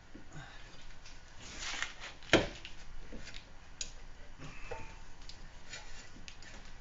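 Parts being fitted back onto a car's rear hub and brake assembly by hand: a short scraping slide, then one sharp knock about two and a half seconds in, with scattered light clicks and taps.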